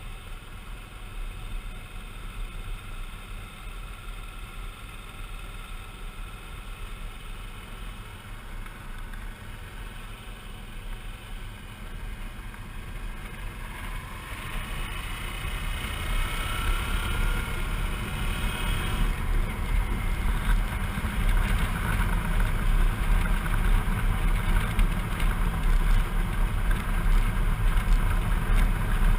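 Suzuki V-Strom 650's V-twin engine running on the road, with wind rushing over the microphone. About halfway through, the engine note rises and the wind grows louder as the bike speeds up.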